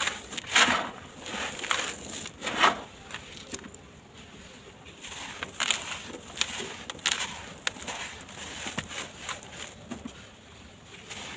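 Dry, gritty sand-cement blocks crumbling in a tub: irregular crunching and grinding, with loud crunches in the first three seconds, then quieter, scattered crackles.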